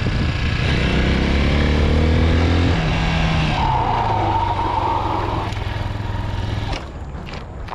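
Chinese 250 dirt bike engine accelerating, its note climbing for nearly three seconds, then dropping to a lower, steadier note that falls away suddenly near the end.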